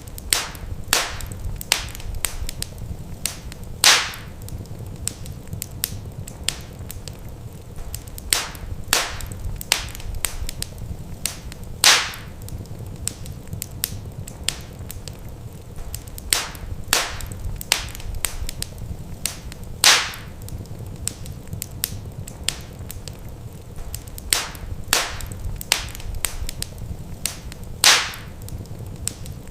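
Wood fire crackling in a fireplace: many sharp snaps and pops over a low steady rumble, with a louder pop about every eight seconds.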